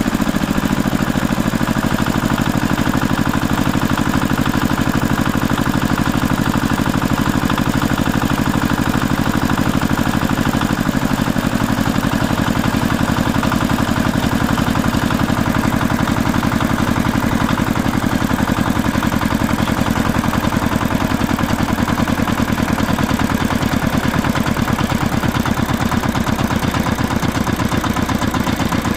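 A motor running steadily with a fast, even pulse, like an idling engine, with a slight change in its low note about a third of the way through.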